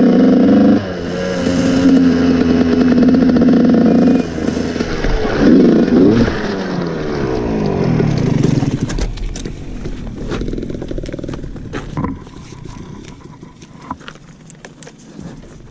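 Dirt bike engine running, then revving with the pitch rising and falling. After about nine seconds it quietens, leaving scraping and clattering knocks as the bike goes down in the snow.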